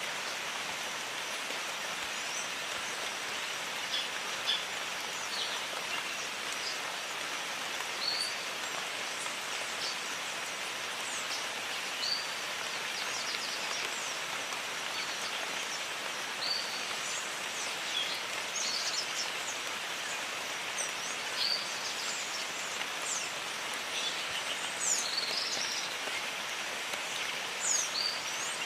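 Steady jungle rain, with short bird chirps and whistles scattered over it.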